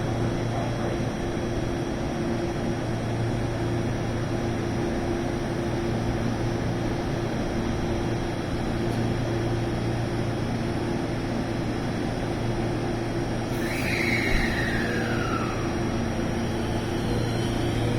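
Electric train at a station making a steady rumble and hum. About fourteen seconds in, a whine falls in pitch, and near the end rising whines start.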